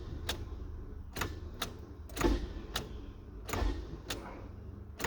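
Starter of a 2000 Nissan Altima clicking over and over, about two sharp clicks a second, some with a dull knock, without the engine cranking: the starter is failing.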